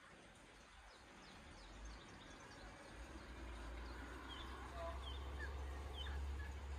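Faint outdoor ambience with a handful of short bird chirps starting about four seconds in, over a steady low rumble.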